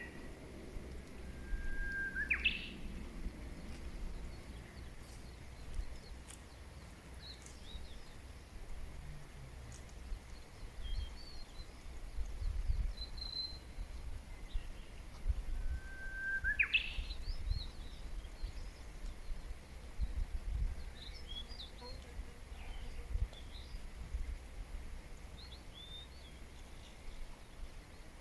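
Wild birds singing outdoors. One bird gives a whistled phrase twice, a short held note that sweeps sharply up, and other faint high chirps come and go, over a low rumble of background noise.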